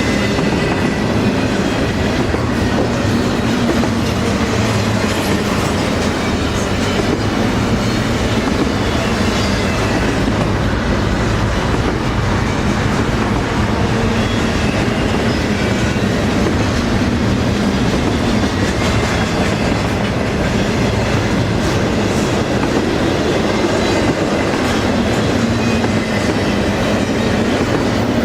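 Double-stack container freight train rolling steadily past: loud, continuous rumble of steel wheels on rail.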